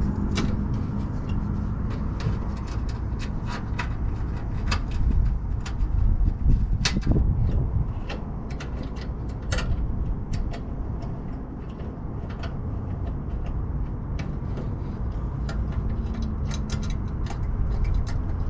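Scattered metallic clicks and knocks of parts and tools being handled and fitted inside an HVAC unit's cabinet, a few louder knocks about six or seven seconds in, over a steady low rumble.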